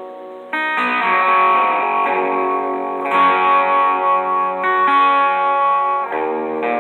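Electric guitar (Ibanez Destroyer) through a clean tube amp with an Electro-Harmonix Screaming Bird treble booster set low, just starting to boost and brighten the tone. Chords are struck and left ringing, with new chords about half a second in, around three seconds in, and twice near the end.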